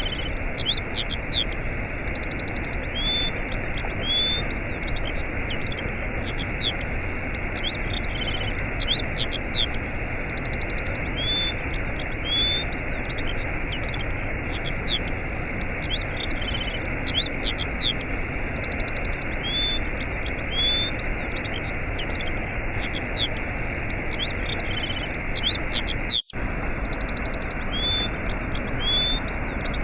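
Steady rushing of a waterfall with many small birds chirping and whistling over it in short rising and falling calls. The water sound drops out for an instant near the end.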